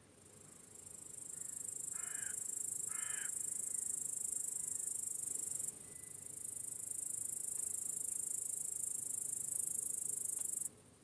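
A loud, high-pitched insect buzz swells in over the first second, breaks off briefly about halfway, then resumes and cuts off suddenly near the end, over a faint steady chorus of crickets. Two harsh crow caws come about two and three seconds in.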